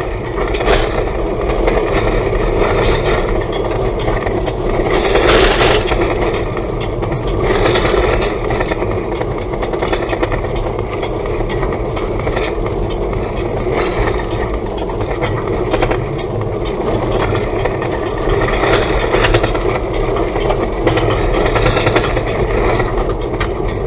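Toyota Tank driving over a rutted, gravel-strewn washboard road: a constant loud road rumble with crushed stone clattering against the underbody and wheel arches.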